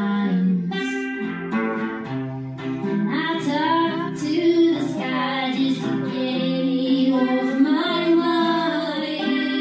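A female voice singing a wordless or drawn-out melodic line over strummed acoustic guitar.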